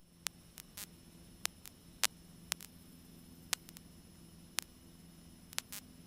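Faint steady electrical hum and static with about a dozen sharp clicks scattered through it; the aircraft engine is not heard, typical of a cockpit audio-cable feed whose intercom has gone quiet.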